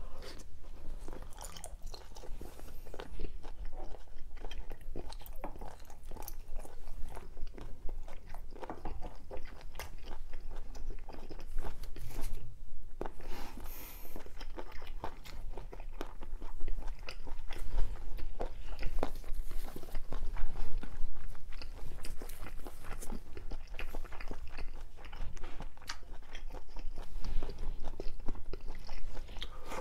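A person chewing and biting food close to the microphone, starting on a slice of pyeonyuk (sliced pressed pork): wet mouth sounds with many crunchy bites throughout.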